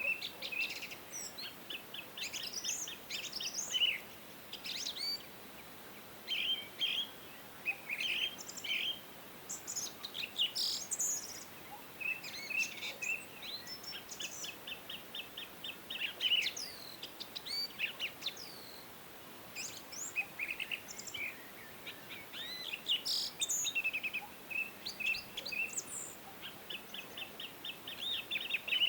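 Several songbirds singing and chirping together, with rapid trills and short whistled notes overlapping throughout, over a faint steady background hiss.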